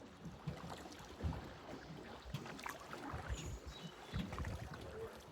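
Small hand-rowed boat moving on still water: irregular low knocks and water sounds from the oars and hull.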